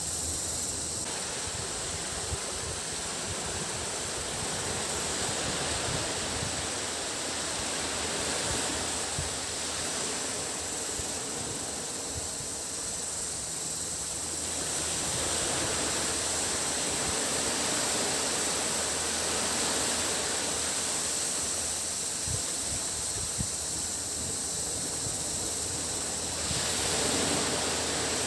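Sea waves washing onto the beach, the wash swelling and easing over several seconds, under a steady high-pitched drone of cicadas.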